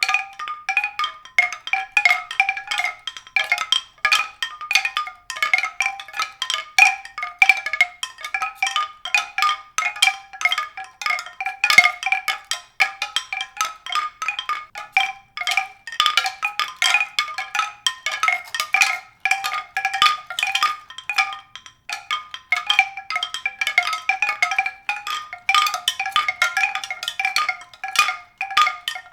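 Tuned percussion struck rapidly and irregularly, bright ringing notes on a few fixed pitches, without a break.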